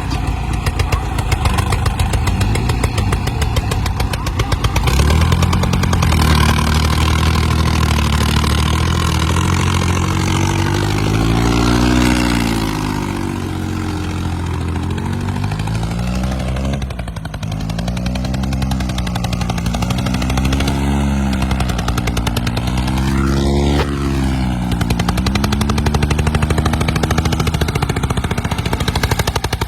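Diesel tractor engine running under heavy load, revving up and down over and over from about five seconds in, with a steady drone underneath.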